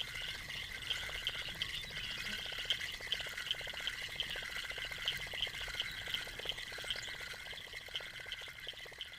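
A steady, high-pitched animal chorus of frogs and insects calling at a pond. It swells and fades in regular pulses a little under a second apart, with a faint fast ticking underneath.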